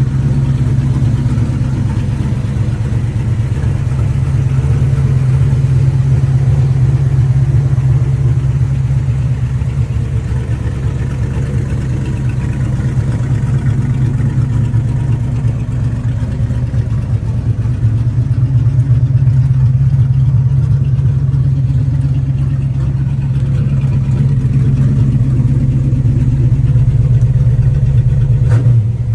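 Race truck engine idling steadily at a deep, even pitch, swelling a little in loudness now and then. A few sharp knocks near the end.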